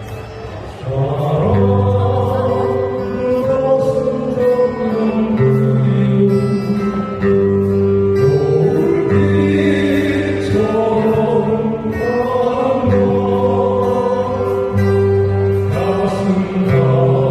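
Acoustic guitar band playing live, with held bass notes and a sung melody over the guitars.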